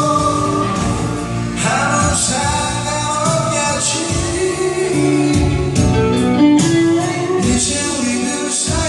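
A song being sung over backing music with drums, with cymbal crashes every second or so.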